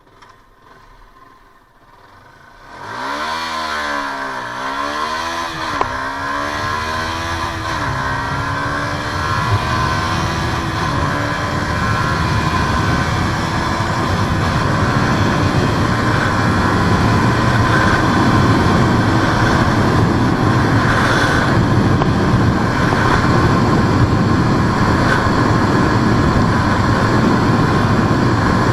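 Yamaha YZF-R125's 125 cc single-cylinder four-stroke engine accelerating hard from about three seconds in, its pitch climbing and dropping back at each of several quick upshifts. From about eleven seconds on the revs hold high under a steady, slowly louder rush as the bike runs on at top speed.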